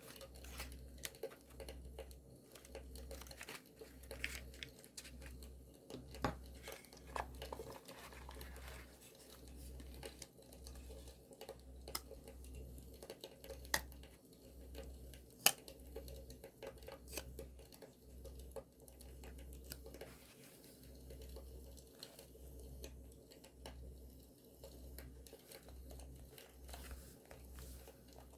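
Paper crinkling and being torn by hand for scrapbooking, over a crackling campfire with scattered sharp pops.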